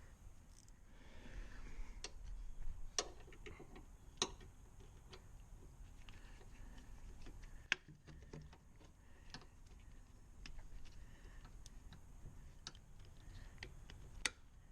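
Irregular light clicks and taps of hand tools being handled, with a few sharper metallic knocks.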